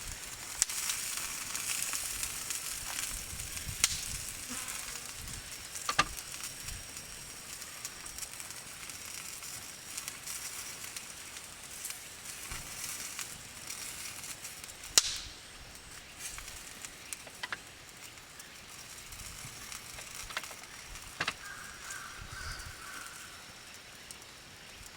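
Yakitori chicken skewers sizzling over a wood campfire, with a steady hiss and a sharp crackling pop every few seconds, the loudest about two-thirds of the way through.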